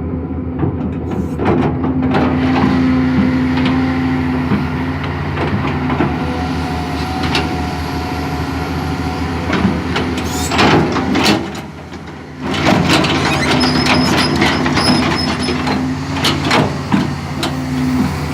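Excavator's diesel engine running steadily under load while it digs and levels soil, with repeated knocks and clanks from the working machine. About twelve seconds in the engine sound dips briefly, then picks up again.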